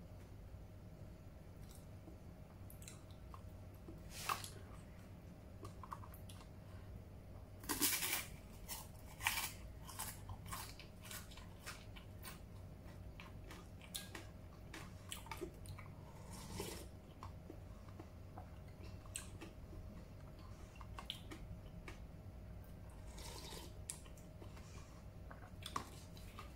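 Close-up chewing and crunching of crispy okra chips, with the loudest crunches about eight to nine seconds in.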